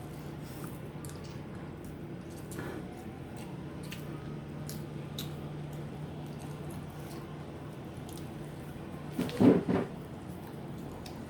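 Close-up eating sounds: soft wet squishes and small clicks of fingers working rice and mash, with chewing, over a steady low hum. A brief louder sound in two or three quick pulses comes about nine and a half seconds in.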